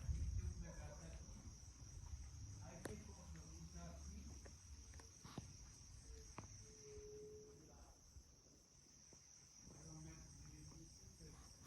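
Faint, steady, high-pitched insect chorus that holds unbroken throughout.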